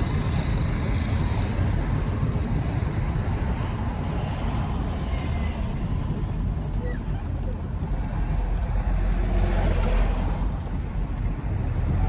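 Truck on the move: a steady low engine and road rumble.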